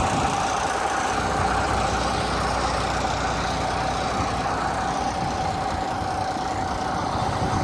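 Semi truck's diesel engine idling, a steady low drone with a constant thin whine over it.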